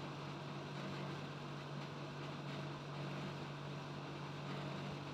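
Steady low hum with an even background hiss, unchanging throughout; no distinct knocks or chewing clicks stand out.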